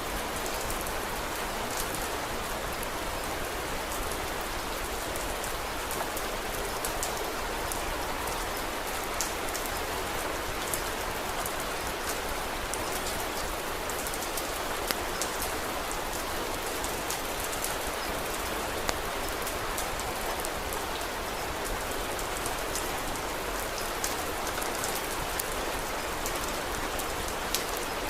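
Steady rain hiss with scattered sharp ticks and crackles every few seconds.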